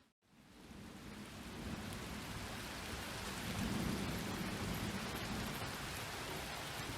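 Steady rain falling, with a low rumble of distant thunder swelling and fading through the middle. The sound drops out for a moment at the very start and fades back in.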